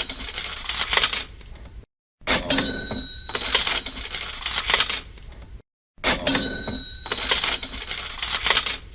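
Cash-register sound effect playing on a loop: each round opens with a ringing bell ding, followed by a rattling clatter of coins. It repeats about every three and a half to four seconds, with a brief silent gap between rounds.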